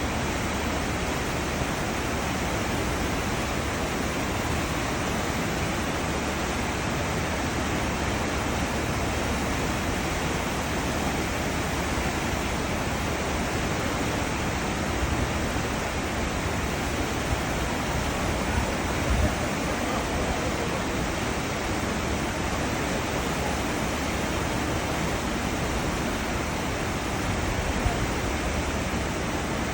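Cruise ship's wake churning behind the stern: a steady, even rush of foaming water, with a few brief low bumps about two-thirds of the way through and near the end.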